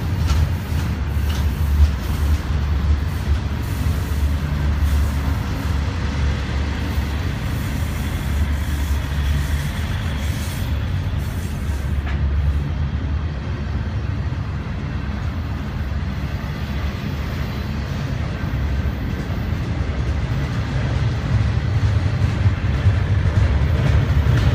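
Double-stack intermodal freight train rolling past close by: the steady rumble of its well cars on the rails, heaviest in the low end, growing a little louder near the end.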